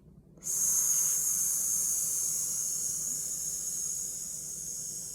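A woman's long 'sss' exhale, pushed out through the teeth as an S breath. It is a steady hiss that starts about half a second in and slowly fades.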